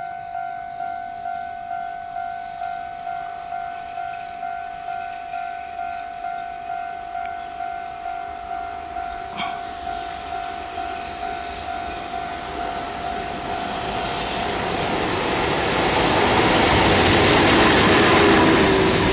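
A railway warning bell dinging about twice a second. About two-thirds of the way in, a train comes through and its running noise on the rails swells to cover the bell, loudest near the end.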